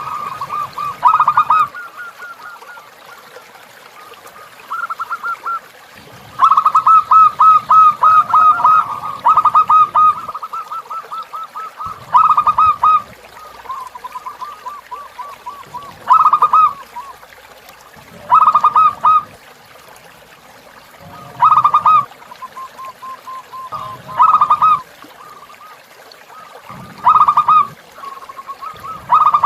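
Zebra dove (perkutut) cooing in short staccato phrases of rapid notes, repeated every two to three seconds, with a longer run of phrases near the middle, over faint running water.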